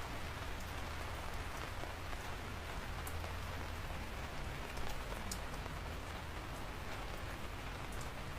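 Steady rain falling, an even hiss, with a few scattered sharp ticks of single drops striking a surface.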